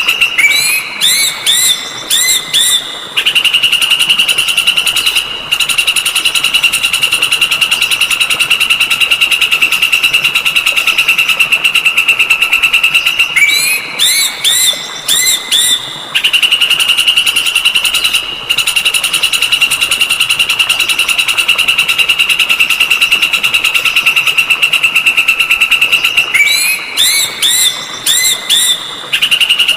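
Looped songbird tutoring recording (masteran): a high, fast, buzzing trill held steady. Three times it breaks off for a quick phrase of about five arching whistled notes, roughly every thirteen seconds.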